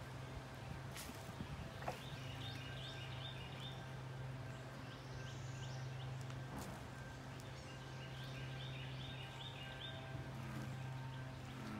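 Birds chirping in two quick runs of high notes, about two seconds in and again about eight seconds in, over a steady low hum.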